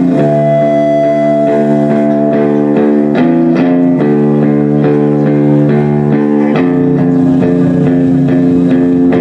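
Live guitar-band music: guitars holding ringing chords with picked notes over them, changing chord about three seconds in and again about six and a half seconds in.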